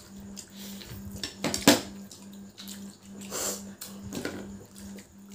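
Plates clinking and knocking on a table while noodles are eaten without hands, with one sharp knock about 1.7 seconds in and a short wet slurping sound about halfway through.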